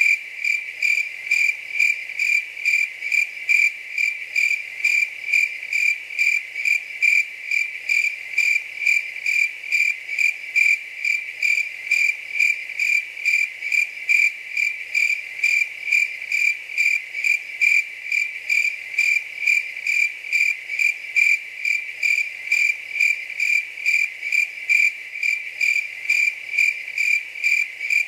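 A cricket chirping in a steady, even rhythm, about two chirps a second, all on one high pitch.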